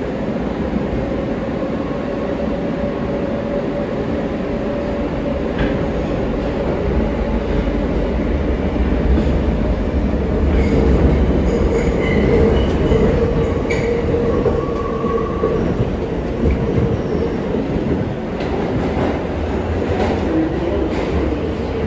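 New York City subway R143 car running along the track, heard from aboard: a steady rumble of wheels on rail. About halfway through, thin squealing tones from the wheels come in and it gets a little louder for a few seconds.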